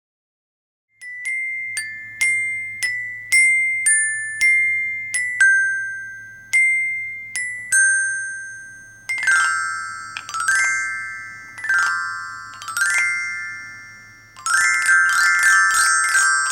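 Music: a slow melody of single struck, bell-like glockenspiel notes, each ringing out, starting about a second in and turning into ringing chords about nine seconds in.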